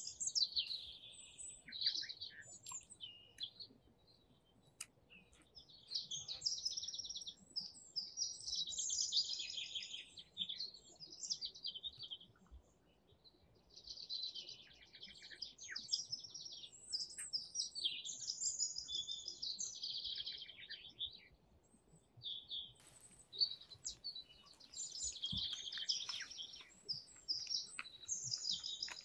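Songbirds singing: quick trilled phrases, each one to a few seconds long, repeated over and over with short pauses between them.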